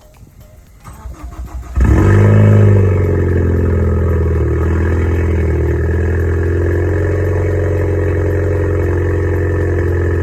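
A Ford Focus ST's engine with a straight-pipe exhaust, its muffler and resonator deleted so that there is straight pipe after the catalytic converter. The starter cranks briefly, the engine catches about two seconds in with a short flare of revs, then settles into a loud, steady idle.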